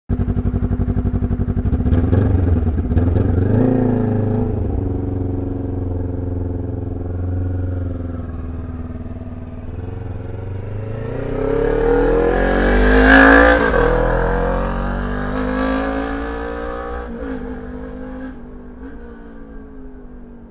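Honda VTEC engine's exhaust note through a homemade muffler, revving and accelerating. The pitch climbs to a peak about two-thirds of the way through, drops sharply, then fades away near the end.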